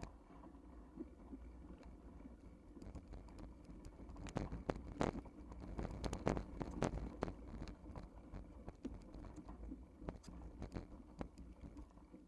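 Bike rattling and clunking over rough ground, with quick clicks and knocks over a steady low rumble; the knocks come thickest a few seconds in, then ease off.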